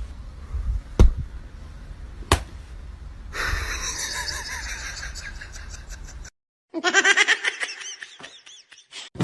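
Home-video clips cut together: low handling rumble with a few sharp knocks, then after a brief dead gap a person laughing in quick repeated bursts near the end.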